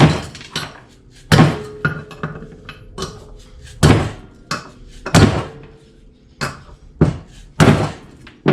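Hammer blows on the valve spring retainers of a cylinder head, knocking the valve keepers loose so the springs can be pulled. There are five heavy, irregularly spaced strikes, with lighter knocks between them.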